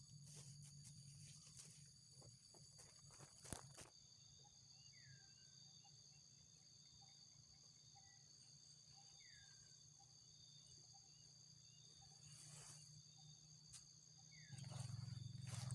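Faint outdoor insect chorus: a steady, high-pitched buzzing of several tones, with a bird repeating a short note about twice a second and giving a few short falling whistles. A few clicks, and a rustling that grows louder near the end.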